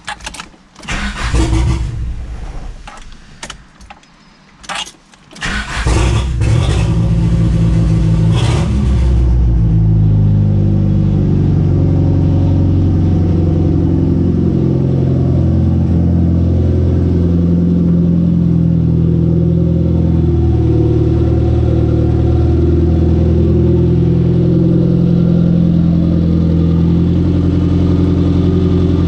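Mitsubishi G54B turbo four-cylinder engine in a Starion/Conquest being started: a few short, uneven bursts, then it catches about five seconds in. It is blipped a few times and settles into a steady idle from about ten seconds in.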